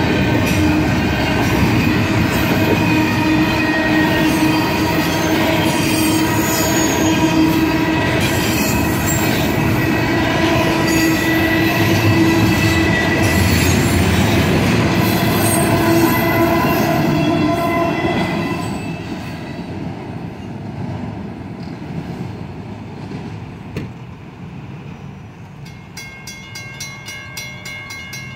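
Double-stack intermodal freight cars rolling past with steady wheel squeal. The sound drops away about two-thirds of the way through as the end of the train clears. Near the end a railroad crossing's warning bell is heard ringing rapidly.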